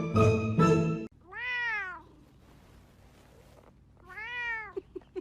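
A domestic cat meowing twice, two drawn-out meows that rise and fall in pitch, about two and a half seconds apart. Jingly music cuts off suddenly about a second in, and a quick run of short blips follows near the end.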